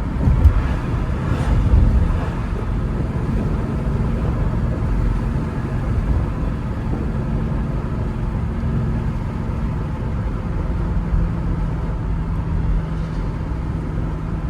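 BMW car on the move: a steady engine hum under road noise, with two brief louder surges in the first two seconds.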